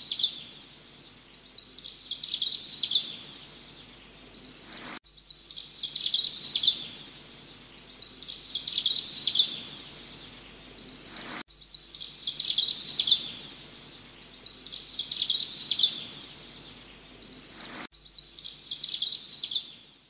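A songbird repeatedly singing a short, chirpy, descending phrase about every two and a half seconds, with sudden breaks in the sound roughly every six seconds.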